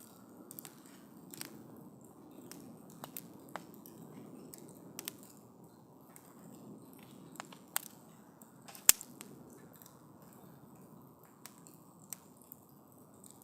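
Wood campfire crackling: irregular sharp pops and snaps over a soft, steady low rush of burning, with one loud pop about nine seconds in.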